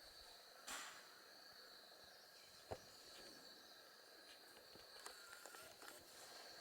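Near silence: quiet outdoor ambience with a faint steady high-pitched tone, a brief rustle about a second in, a single sharp tap near the middle, and a few soft ticks near the end.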